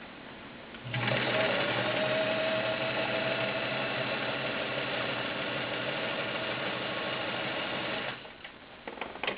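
Kenmore Model 65 all-metal sewing machine running steadily as it stitches a seam, driven by its 1.2-amp motor; it starts about a second in and stops about a second before the end. A few sharp clicks follow near the end.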